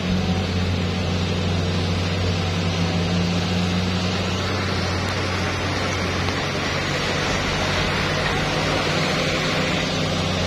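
Motor vehicle engine running steadily under a constant hum, with road and wind noise.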